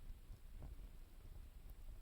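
Wood campfire crackling faintly, with a few soft, irregular pops.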